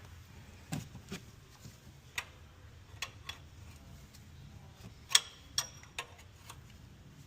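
Irregular sharp clicks and light knocks of hand tools and engine parts being handled, about ten in all, with the loudest knock about five seconds in.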